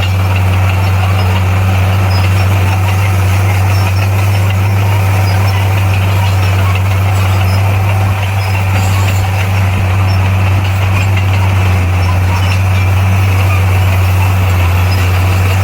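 Bulldozer's diesel engine running steadily under load, with a constant deep drone and mechanical noise above it.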